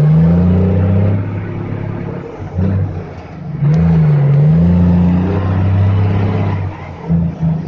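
Heavy truck's diesel engine pulling under load, its pitch rising and falling with the revs; it eases off around three seconds in, then pulls again before easing off near the end.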